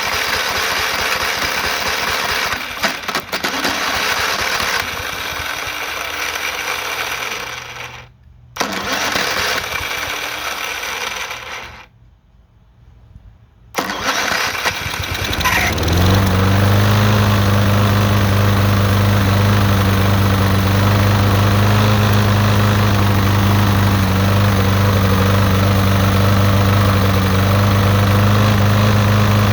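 Push lawnmower's small engine cranked by its electric starter motor, with two short pauses, catching about fifteen seconds in and then running at a steady speed. The owner says the motor is going out and plans to clean the carburetor.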